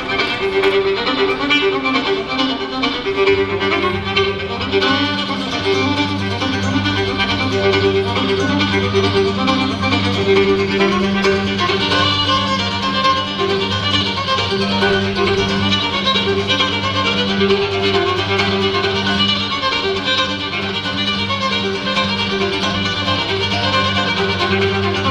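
Acoustic bluegrass band playing live, with the fiddle out front.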